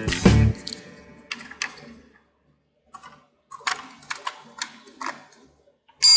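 Scattered light clicks and taps of small plastic toy pieces being handled, with a silent gap in the middle. Background music fades out in the first half second, and a loud steady hiss with a high tone cuts in just before the end.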